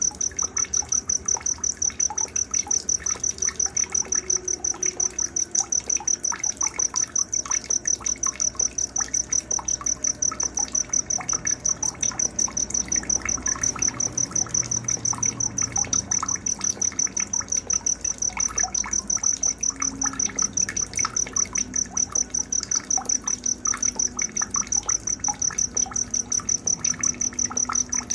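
Night nature ambience: a cricket chirping in a fast, even, high-pitched pulse that never stops, with scattered short bird chirps under it.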